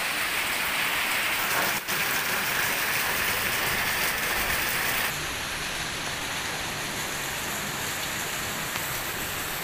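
Heavy rain pouring down with running, splashing floodwater, a steady hiss. There is a brief break about two seconds in, and the sound turns slightly duller and quieter about five seconds in.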